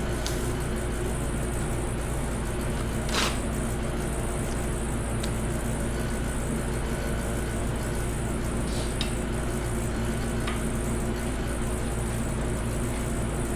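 A steady background hum with a few short, light clicks of hand tools being handled; the clearest click comes about three seconds in.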